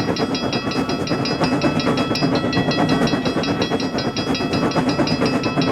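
Animated train sound effect: a train running steadily, with a fast, even rhythm and steady high ringing tones over a dense rumble.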